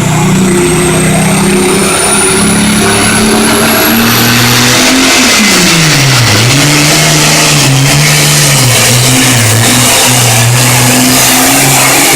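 Turbocharged diesel pulling tractor running under full load down the pull track, with a high turbo whine climbing over the first few seconds. About five to six seconds in the engine pitch drops sharply as it bogs under the sled, then climbs back and holds.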